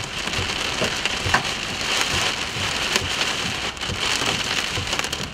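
Heavy rain pelting a vehicle's windshield and body, heard from inside the cabin: a dense, steady patter broken by many sharp ticks of drops striking the glass.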